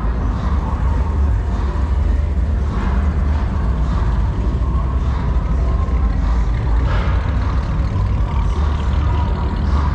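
Steady low rumble of vehicle engines running, with a continuous noisy background.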